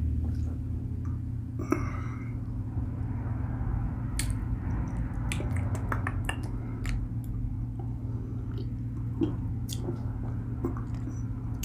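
Close-up mouth sounds of a man sipping and swallowing kombucha from a bottle, with scattered small wet clicks, over a steady low hum.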